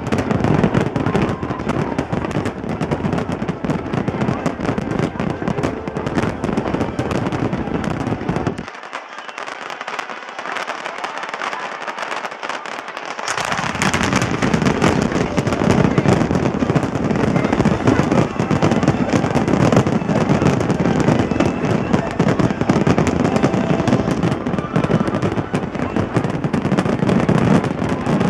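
Fireworks display finale: a dense, continuous barrage of shell bursts and crackling. The deep booms drop out for a few seconds about a third of the way in, then return louder.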